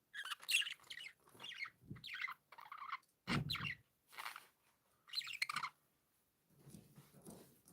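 Pet budgerigars chirping and warbling in several short bursts of quick chirps, fainter near the end.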